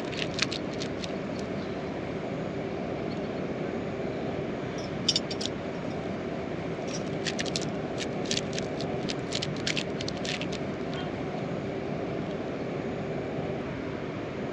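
Steady heavy rain, with scattered sharp taps of drops landing close by at irregular moments.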